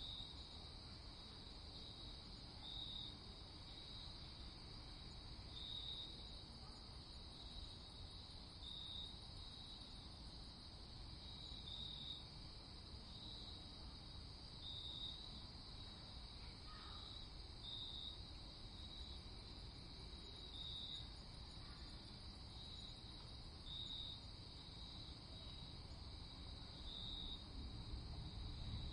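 Crickets trilling steadily on a clear night, with a louder chirp coming back about every three seconds, over a faint low rumble.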